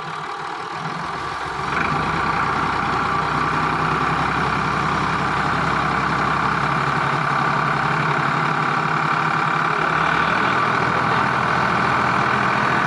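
Ford 4600 tractor engine running steadily, picking up about two seconds in and holding there while the hydraulic lift is worked in a lift-capacity test.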